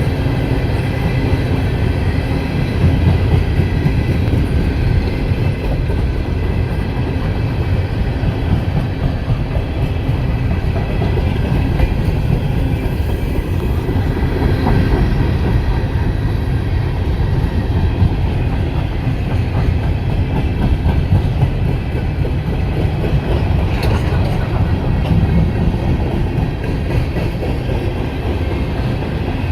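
Coal train's freight cars rolling past: a steady, loud rumble of steel wheels on rail with clickety-clack over the rail joints.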